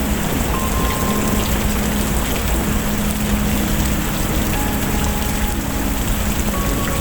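Steady rain falling and pattering on surfaces: a dense, even hiss that holds at a constant level.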